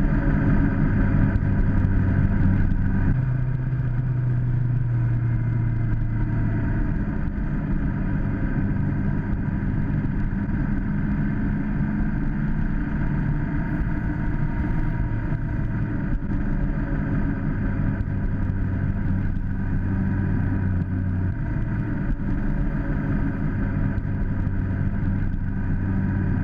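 Suzuki inline-four motorcycle engine running at road speed. The engine note holds steady, with small shifts in pitch a few seconds in and again near the end as throttle and speed change.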